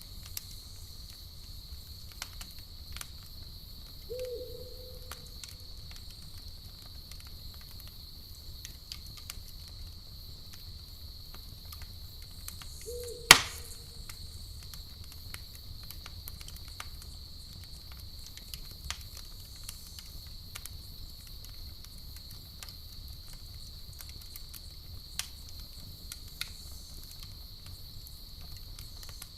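Campfire crackling with scattered sharp pops and one loud snap about thirteen seconds in, over a steady high chirring of crickets. Two short low hoots come at about four seconds and thirteen seconds.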